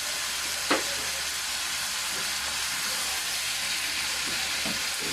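Chicken pieces frying in hot oil with chorizo and onion, a steady sizzle while being stirred, with one sharp knock of the utensil about a second in.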